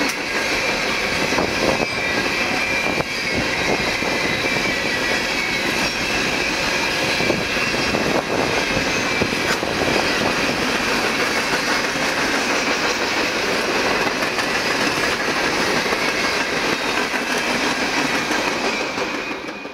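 Freight train of white insulated boxcars, the Tropicana juice train, rolling past at speed: a steady rumble of wheels on rail with scattered clicks at rail joints and a faint high wheel squeal. The sound drops away sharply at the very end.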